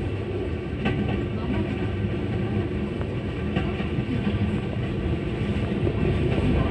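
Cabin running noise of a JR 221 series electric train: a steady rumble of wheels on rail, with a few sharp clicks.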